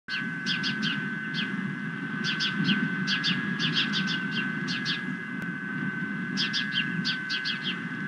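A bird calling in quick runs of short, shrill, downward-slurred chirps, several runs over the few seconds. Under it run a steady high whine and a low rumble.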